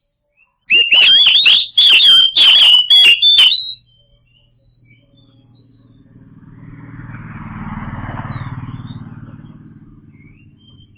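Oriental magpie-robin (kacer) singing a loud, rapid run of high, twisting notes for about three seconds. After it, a vehicle engine passes by, its hum swelling and then fading away.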